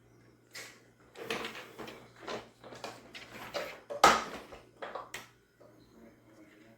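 Handling noises: a run of scrapes, rattles and knocks as things are moved about, with one sharp knock about four seconds in.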